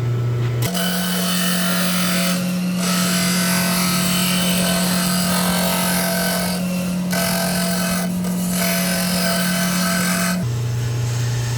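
Bench disc sander running with a workpiece pressed against the disc, giving a steady grinding rasp over the motor hum. The grinding drops out briefly three times as the part is lifted off, then stops near the end.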